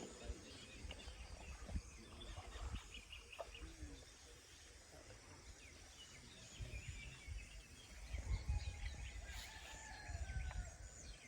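Birds calling outdoors, with scattered short chirps and a longer gliding call near the end, over a faint uneven low rumble.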